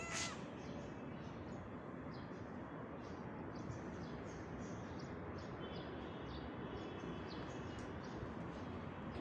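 Outdoor street ambience: a steady background hum with many short, high bird chirps scattered throughout. A brief high call sounds right at the start.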